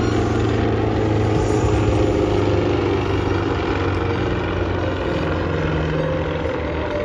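Aircraft engine running steadily overhead, a loud drone whose pitch shifts slowly, fading slightly near the end.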